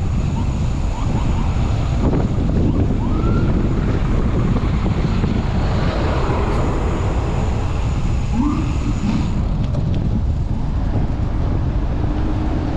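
Strong wind buffeting the microphone of a chest-mounted camera on a moving bicycle, a steady heavy rumble, with a few short rising tones from the traffic around it.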